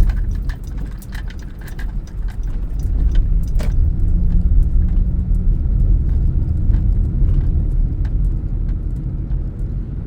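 Car driving, heard from inside the cabin: a steady low rumble of engine and road, with frequent small clicks and rattles and one louder knock about three and a half seconds in.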